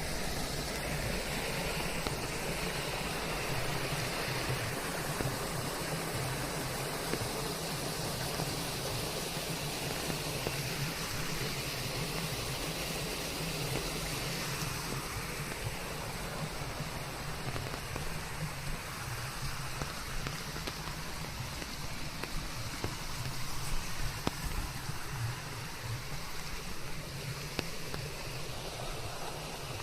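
Steady rain in a forest blended with white noise: an even hiss with faint scattered drop patter.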